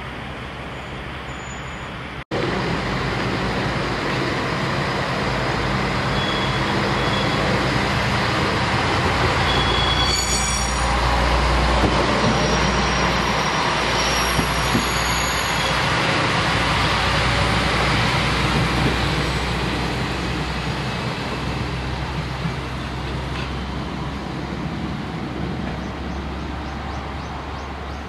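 A train running close past on the rails: the rumble of its wheels builds to a peak about halfway through and then fades away. Brief high-pitched tones, like wheel squeal, come near the loudest part.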